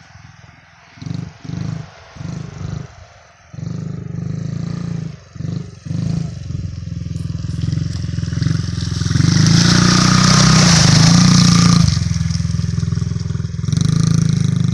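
Honda CRF50 small single-cylinder four-stroke dirt-bike engine, blipped in several short bursts of throttle in the first few seconds, then held on throttle. It is loudest from about nine to twelve seconds in, with a loud hiss over the engine.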